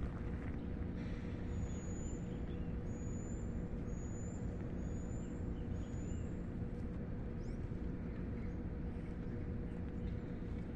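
Steady low outdoor rumble with a faint steady hum underneath. A bird gives five short, high, rising chirps about a second apart in the first half.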